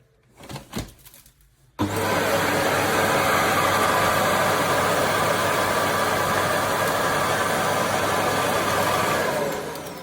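A Shark PowerDetect cordless vacuum motor: a couple of light clicks, then about two seconds in it switches on suddenly and runs loud and steady with a whine over a rushing of air, dying away near the end.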